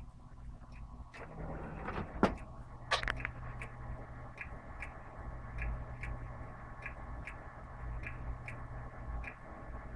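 Desktop computer running with a steady fan hum while something inside clicks at a regular pace, just under two clicks a second, with two louder knocks about two and three seconds in. The uploader suspects the hard disk is the source of the clicking.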